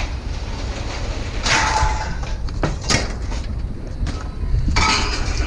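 Scrap metal being handled: a couple of short scrapes and a sharp clank over a steady low rumble of machinery.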